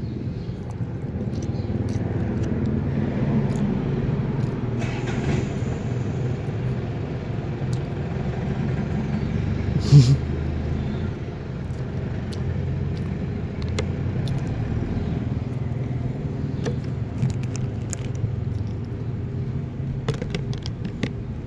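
Steady low rumble of a running vehicle, with one sharp knock about ten seconds in.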